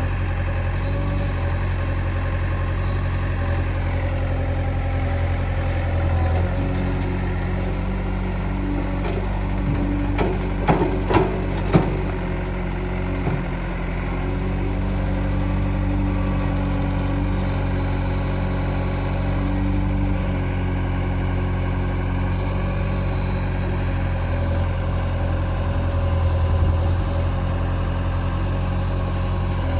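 Diesel engines of the earth-moving machinery running steadily, the engine note shifting a couple of times. A few sharp knocks come close together about ten to twelve seconds in.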